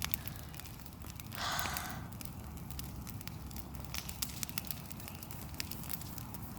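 Bonfire of dry tree branches crackling, with scattered sharp pops over a low rumble of the flames. A short breathy rush about a second and a half in.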